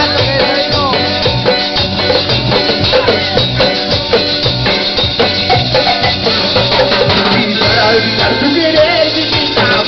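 Latin-style band music with hand percussion such as maracas and drums keeping a steady beat, and a melodic instrument or voice over it.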